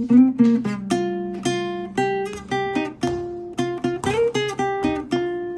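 Background music: acoustic guitar picking a melody, plucked notes at about two to three a second.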